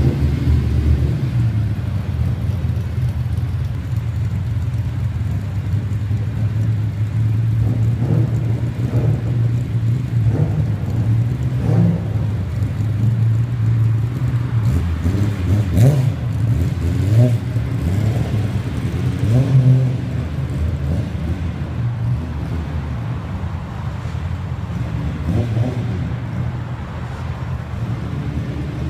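Nissan Fairlady Z (S30) carburetted straight-six idling, with several short throttle blips in the middle stretch.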